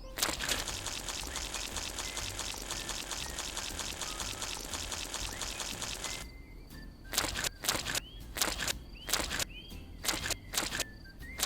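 A fast, dense rattling for about six seconds that stops abruptly, then sharp knocks about twice a second with faint bird chirps.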